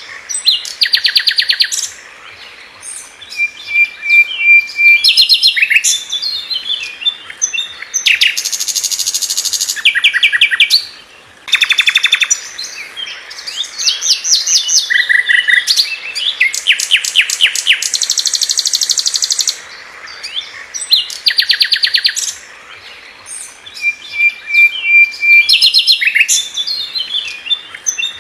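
Sikatan londo flycatcher singing loudly in bursts of very rapid, dense trills, broken by short whistled notes. The same sequence of phrases repeats about every nine seconds, as in a looped song recording used to train other songbirds.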